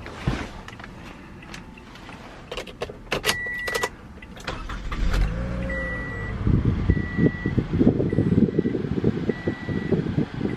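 A few clicks and a short beep, then the 2017 Toyota Camry SE's 2.5-litre four-cylinder engine is cranked by the starter about four and a half seconds in, catches and runs with a steady rumble. A dashboard chime beeps several times over the running engine.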